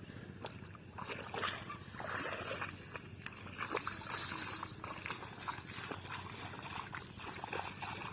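Shallow water sloshing and splashing irregularly as hands grope through it for catfish, with many small splashes and trickles.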